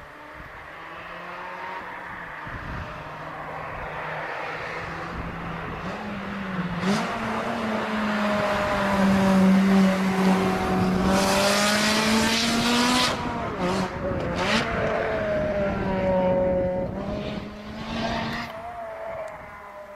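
Honda Civic FD2 with a GT-Exhaust aftermarket exhaust running hard at speed: the exhaust note builds in loudness to a peak around the middle, shifting in pitch, then eases off and swells briefly again near the end.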